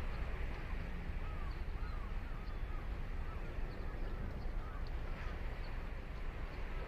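Ocean waves washing onto a sandy beach in a steady rush, with crows cawing in a run of short repeated calls from about a second in.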